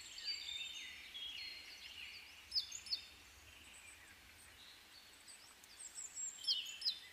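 Small birds chirping and singing: repeated short high notes and trills, with sharper, louder phrases about two and a half seconds in and again near the end.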